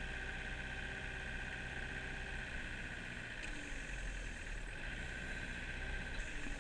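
Kubota mini excavator's diesel engine running steadily.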